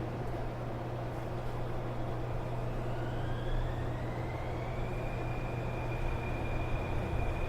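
Onboard running sound of a Kobe New Transit 2020-series rubber-tyred automated people mover. Beneath a steady hum and rumble, a traction-motor whine rises in pitch about three seconds in, then levels off and holds as the train gathers speed.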